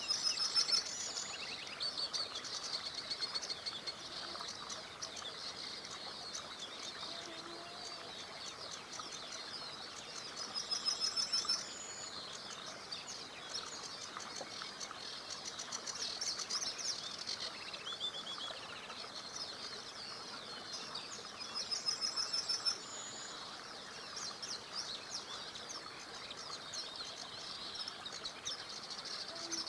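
Several birds singing and chirping over the steady rush of a small river. One bird repeats the same short, rapid trill about every eleven seconds.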